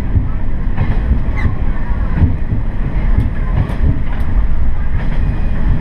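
Noto Railway diesel railcar running along the line: a steady low rumble of engine and wheels on rail, with scattered short clicks and knocks from the track.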